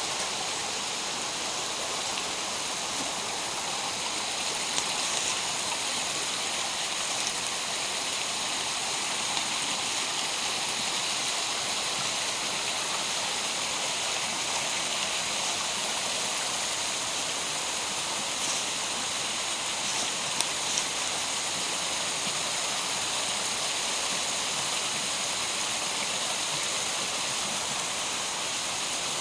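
Gorge stream rushing steadily, with a few faint ticks about five seconds in and again near twenty seconds.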